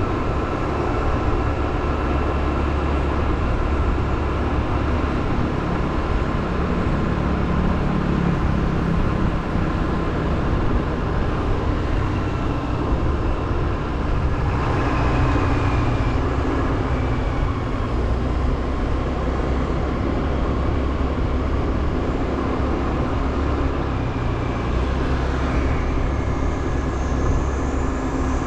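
Motorbike running steadily while being ridden, its engine hum mixed with a constant rushing noise.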